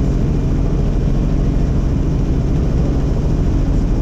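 Helicopter in flight: a steady, loud drone of rotor and engine with a low hum.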